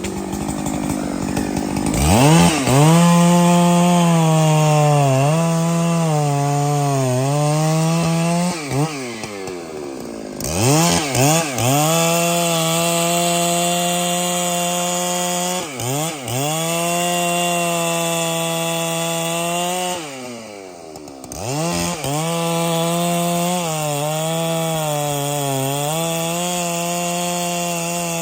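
Large two-stroke professional chainsaw running at full throttle through a big trunk, its pitch sagging and recovering under the load of the cut. It revs up about two seconds in, then twice, about nine and twenty seconds in, drops briefly toward idle before opening up again.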